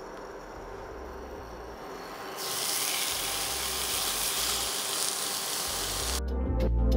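Raw chicken breast sizzling as it goes into a hot, dry frying pan. The hiss starts about two and a half seconds in and cuts off suddenly near the end, where background music with a steady beat comes in.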